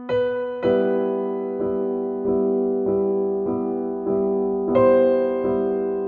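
Soft background music on electric piano: sustained chords with notes struck at an even, slow pulse of about one every half to two-thirds of a second.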